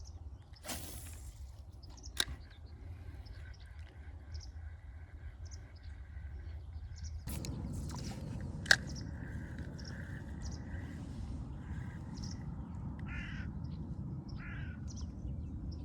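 Geese honking repeatedly in the distance, short calls on a steady pitch. Two sharp knocks are heard, about two seconds in and the louder one near nine seconds, over a low steady rumble that gets louder partway through.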